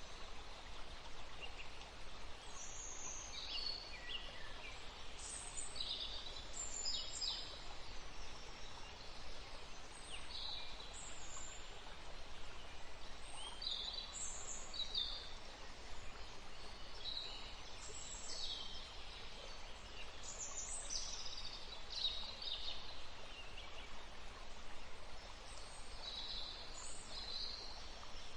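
Several songbirds chirping and calling in short, high-pitched phrases, some dropping in pitch, over a steady background hiss.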